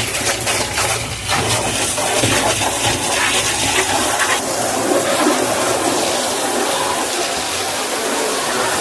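Water rushing and splashing steadily.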